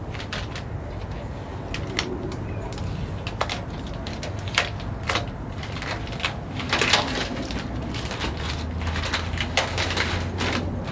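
Irregular sharp clicks and crinkling handling noise over a low steady hum.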